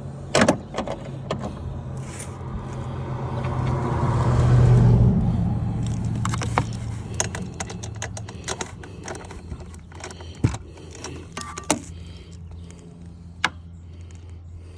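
Scattered metallic clicks and clinks of hand tools and hose fittings being handled, over a steady low hum. A louder rushing sound swells and fades around four to five seconds in.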